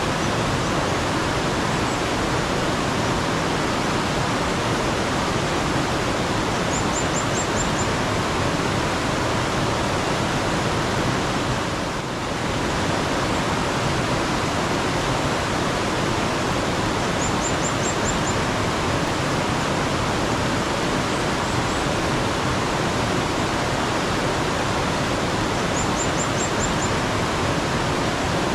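Mountain stream water rushing steadily. A small bird gives a short, quick run of high chirps three times, about every nine or ten seconds.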